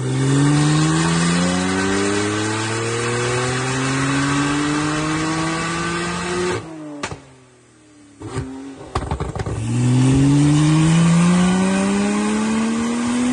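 Porsche 991.2 Turbo S twin-turbo flat-six with an aftermarket exhaust and tune, run at full throttle on a roller dyno: the engine note climbs steadily in pitch, cuts off suddenly about six and a half seconds in with a few sharp cracks from the exhaust, then climbs again in a second pull from about ten seconds in.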